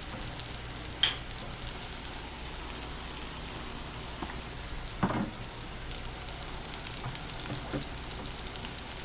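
Breaded mushroom bites deep-frying in a pot of hot oil: a steady sizzle with small crackling pops. A sharp click about a second in and a short knock about five seconds in.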